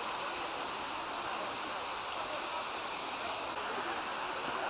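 Steady rush of water pouring down the rocky cascades of a mountain stream.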